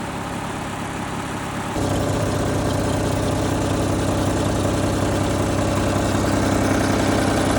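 Lawnmower engine running steadily; about two seconds in it suddenly gets louder and stays there. The drive belt is too loose to grip and turn.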